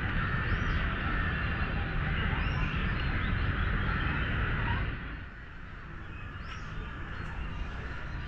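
Outdoor park ambience: a few short, high bird calls over a steady rumble and hiss of background noise, which drops in level about five seconds in.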